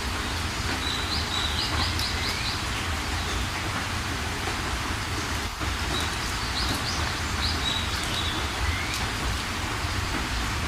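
Steady rain falling, with a bird singing two short phrases of quick, high chirps, about one second in and again about six seconds later.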